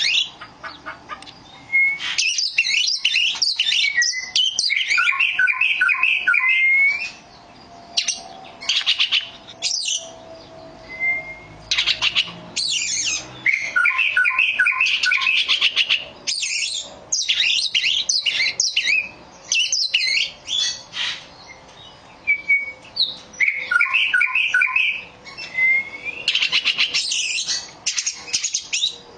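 Oriental magpie-robin singing: rapid, varied phrases of whistles and chattering notes, each a second or two long, separated by short pauses, with now and then a short rising whistle.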